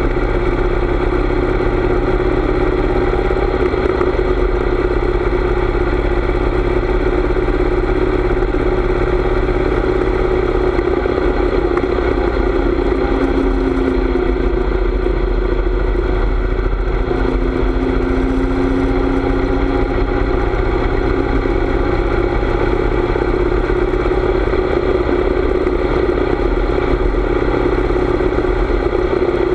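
Harley-Davidson V-twin motorcycle engine running steadily while riding, with its pitch shifting a little partway through, over a low rumble of wind on the microphone.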